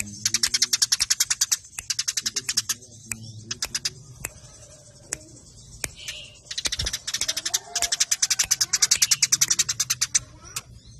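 Eurasian tree sparrows chattering in agitated fighting calls: dense runs of very fast, high chirps, many a second, in bursts separated by short pauses.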